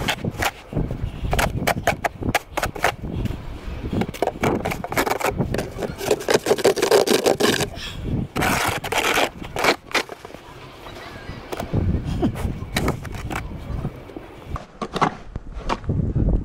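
Snow shovel scraping through snow in quick, irregular strokes.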